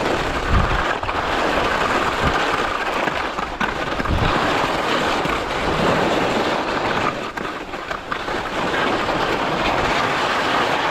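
Skis scraping over hard-packed snow on a run, a steady rough hiss with a few low thumps.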